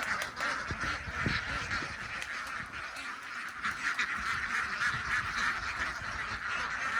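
A large flock of ducks quacking without a break, many calls overlapping into a dense chatter.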